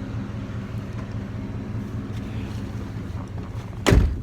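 Ford F-150's 6.2-litre V8 idling with a steady low hum, and one heavy thump near the end.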